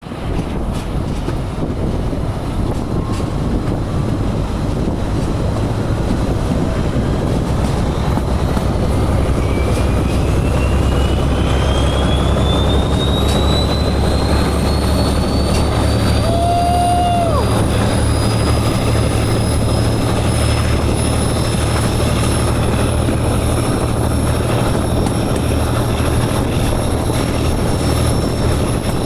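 British Rail Class 17 diesel locomotive D8568 working hard under load, its engines giving a steady low rumble with a whine that climbs slowly in pitch before levelling off. A brief single-note tone sounds about halfway through.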